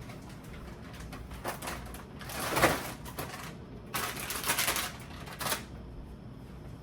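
Groceries being handled and put into a refrigerator: a few short bouts of packaging rustle and knocks, the loudest about two and a half seconds in and another cluster a second and a half later.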